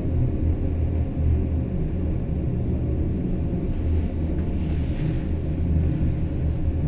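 Bernina Express train heard from inside a carriage, running with a steady low rumble, with a brief hiss about four to five seconds in.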